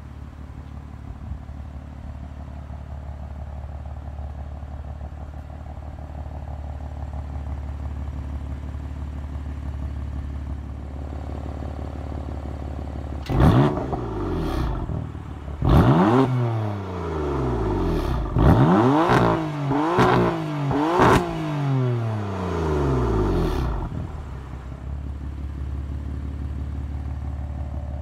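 2017 BMW M3's 3.0-litre twin-turbocharged inline six idling through its quad-tip exhaust, then revved in a series of about six throttle blips, pitch shooting up and falling back each time, the last held for about two seconds before it drops back to a steady idle.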